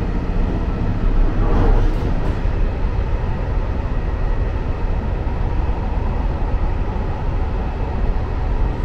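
KiHa 261 series diesel express train running at about 110 km/h, heard from the vestibule: a steady, loud rumble of wheels on rail and running gear.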